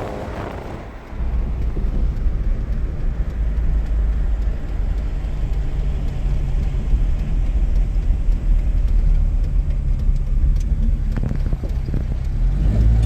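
Car on the move: a steady low engine and road rumble that gets louder about a second in.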